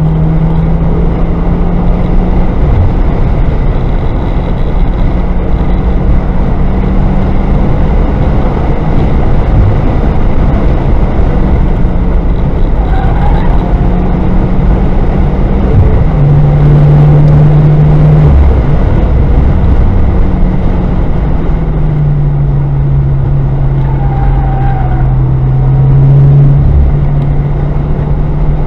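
Car engine and road noise heard from inside the cabin at track speed, the engine note dropping and climbing again several times with throttle and gear changes.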